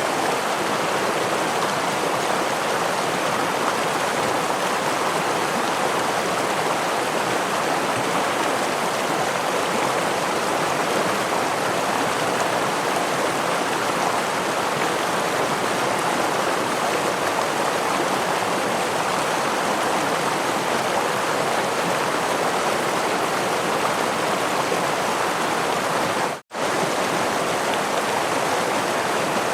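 Stream with a small waterfall rushing steadily as an even, unbroken water noise. It cuts out for a split second near the end.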